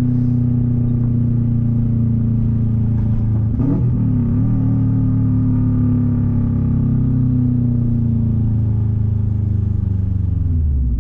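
Subaru wagon's flat-four engine running through an open 3-inch catless downpipe with no further exhaust, loud and steady while driving. Its note dips and recovers briefly about four seconds in, then slowly falls in pitch and drops off near the end as the engine slows.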